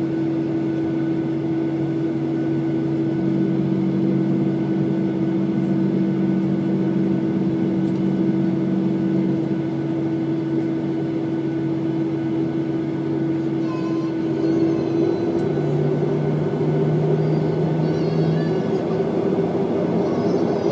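Boeing 737 jet engines and cabin hum heard from inside the passenger cabin, a steady droning with several held tones. About fifteen seconds in, the engine tones shift slightly higher in pitch.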